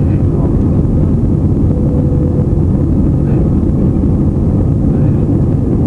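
Airplane engines running during takeoff: a loud, steady low rumble that holds even throughout.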